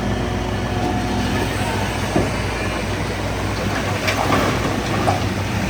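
Heavy diesel machinery running steadily, with metallic clanks and squeaks typical of a bulldozer's steel tracks and a few sharp knocks about two seconds in and again toward the end.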